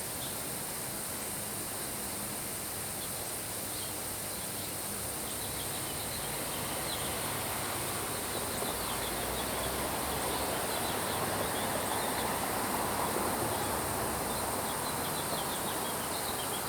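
Steady rain with small birds chirping in short repeated calls; the rain grows somewhat louder about halfway through.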